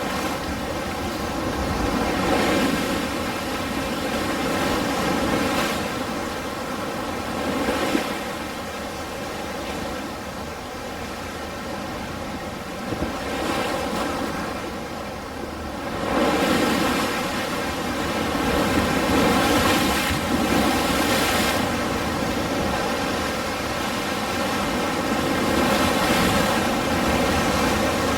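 Ocean waves washing on a shore, rising and falling in surges, with a quieter lull in the middle before a wave surges back in about halfway through.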